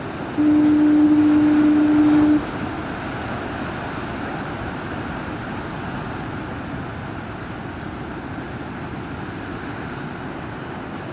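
Pounding surf and wind rushing steadily. About half a second in, a single loud, steady, low horn note sounds for about two seconds and cuts off.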